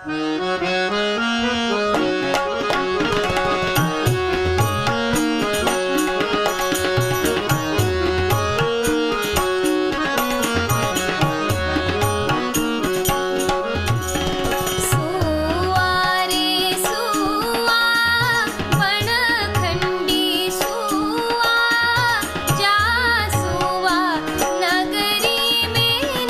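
Kumaoni shagun folk song: an instrumental introduction of tabla strokes under sustained melodic tones, with a woman's singing voice entering about halfway through, wavering ornamentally.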